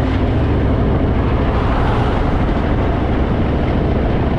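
Harley-Davidson Fat Boy's V-twin engine running steadily at road speed, heard from the moving motorcycle under a heavy wash of wind and road noise.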